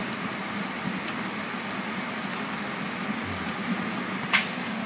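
Steady rush and rumble of a moving train, heard from inside a Vivalto passenger coach. A single brief, sharp hiss about four seconds in is the loudest moment.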